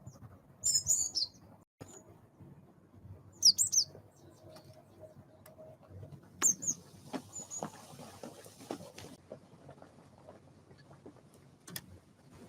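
Small birds giving short, high chirping calls in three brief bursts, about a second in, around three and a half seconds and around six and a half seconds, with a few faint taps in between.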